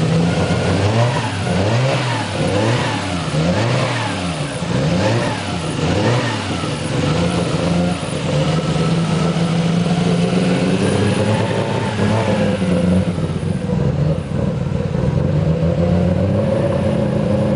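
Freshly built Nissan RB25DET turbocharged straight-six running on its first start-up: blipped up and down about once a second for the first several seconds, then held at a steadier speed and settling to a steady idle.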